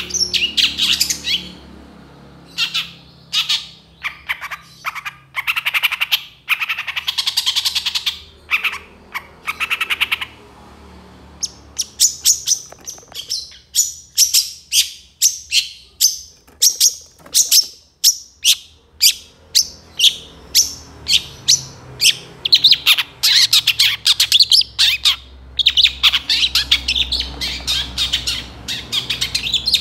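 Long-tailed shrike (cendet) singing vigorously. Harsh, scratchy phrases give way around the middle to a run of short, sharp repeated notes, about two a second, and then to dense chattering near the end.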